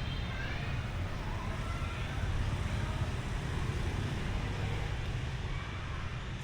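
Street ambience: a steady low rumble of passing road traffic, with faint voices in the background.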